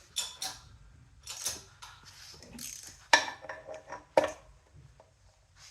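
Metal hand tools clinking and ratcheting on an engine's flywheel nut as it is torqued toward 100 foot-pounds: a string of small clicks and clinks, with two sharp metallic clicks about a second apart near the middle.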